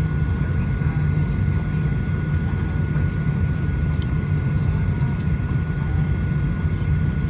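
Steady low cabin drone of a Boeing 737-900ER heard from inside the passenger cabin, with a thin steady whine running over it.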